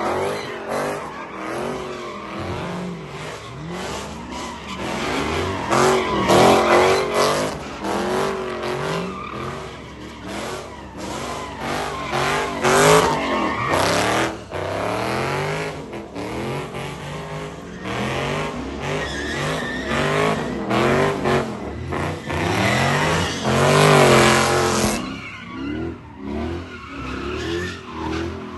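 Car doing a burnout at a street takeover, its engine revving up and down again and again while the tyres squeal on the pavement. The revs hit their loudest about halfway through and again near the end.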